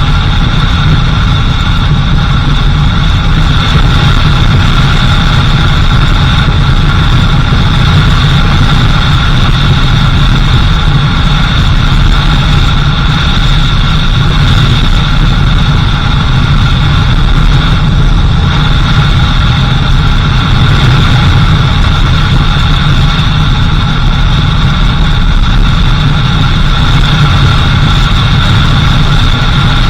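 Four-wheel-drive vehicle's engine running steadily while driving, a constant low drone with a steady high whine over it.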